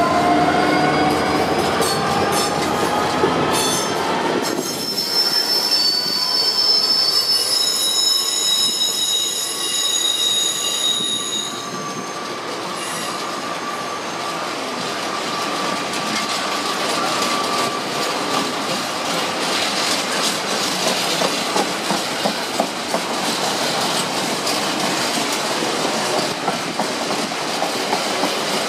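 A Class 66 diesel freight locomotive pulls away with a rising whine, then its long train of empty steel flat wagons rolls past. Their wheels squeal high-pitched for several seconds, and after that a steady rumble follows with the wheels clicking over rail joints.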